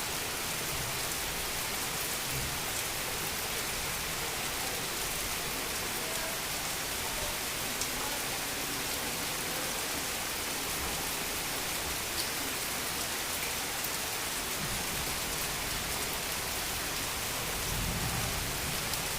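Heavy rain falling steadily: a dense, even hiss with scattered ticks of drops. A brief low rumble swells in near the end.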